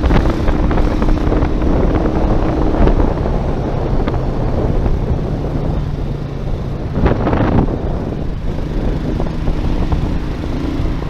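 A vehicle's engine running while travelling, under heavy wind buffeting on the microphone. The engine tone drops about three seconds in and rises again near the end.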